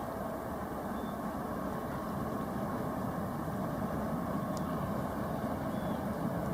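Steady low engine rumble with a faint hum, typical of a large ship's machinery, with a few faint short high chirps.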